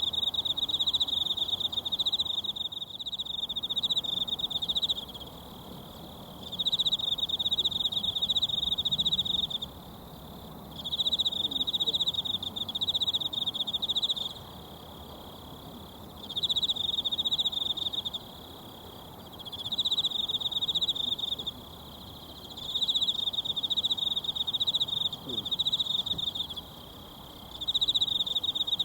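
A high-pitched insect trill, like a cricket's, sung in repeated phrases of two to four seconds with short pauses between them, about seven times. Underneath it is a faint, steady wash that fits a small mountain stream running.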